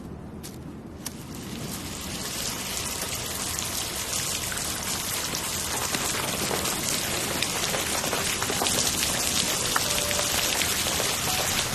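Rain falling as a steady patter of many small drops. It swells over the first couple of seconds and then holds steady.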